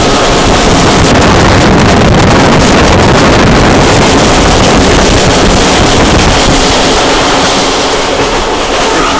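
Moving train running at speed, with a loud, steady rush of wind and rolling noise, the wind buffeting the microphone.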